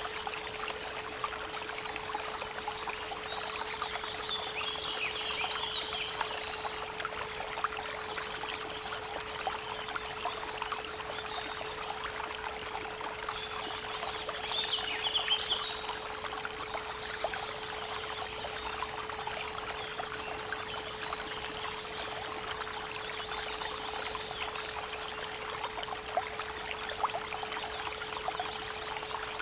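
A creek running steadily, with small birds singing short chirping phrases three times, over a continuous 432 Hz pure tone.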